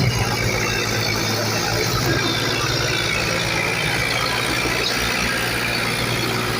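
Diesel tractor engine running steadily at an even speed, with a low, steady note.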